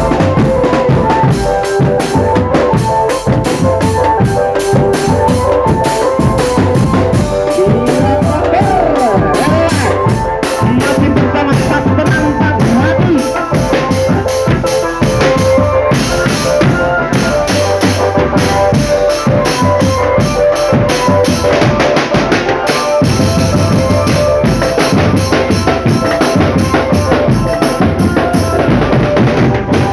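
Marching drum band playing: snare and bass drums beating a fast, steady rhythm with rimshots, under a sustained melody line.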